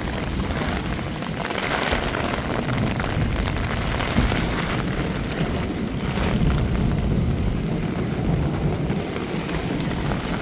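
Storm ambience: a steady hiss of heavy rain over a deep low rumble, swelling a little about two seconds in and again around six seconds.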